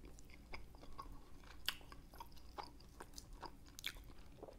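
Faint close-up chewing of saucy pork rib meat, with scattered wet mouth clicks and smacks.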